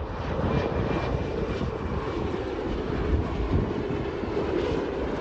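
Jet airliner engines running with a steady, heavy low rumble that holds level throughout.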